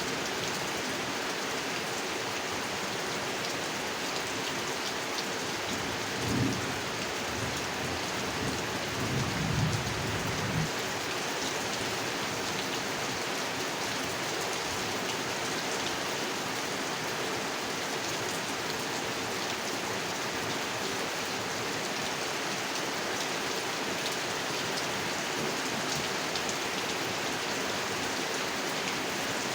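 Steady heavy rain falling on a pond, an even hiss. A low rumble of thunder comes about six seconds in and rolls on until about eleven seconds in.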